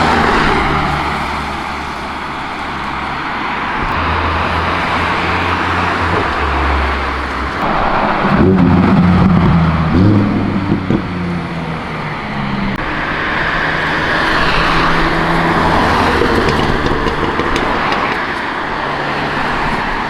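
Cars driving past in steady traffic, engines running with tyre noise. About eight seconds in, one engine passes louder, its pitch rising and falling as it accelerates by.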